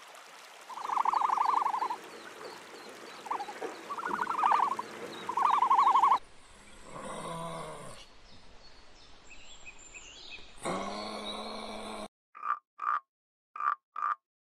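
Frog calls: three loud trilled croaks, each about a second long, over a background hiss, then some lower calls that bend in pitch. From about twelve seconds in, a tree frog gives short croaks, several in quick pairs.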